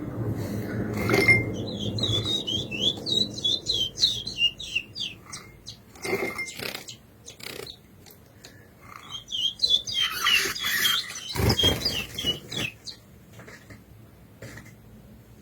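Curió (chestnut-bellied seed finch) singing in two quick runs of rapid high notes, one near the start and one a little past the middle, with scattered clicks and knocks in between.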